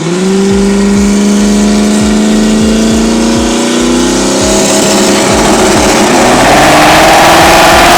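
Car engine under hard acceleration, very loud, its pitch climbing slowly and steadily through a long pull.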